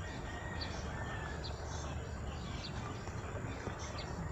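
Small birds chirping in the background, short high chirps about once a second, over a low steady rumble.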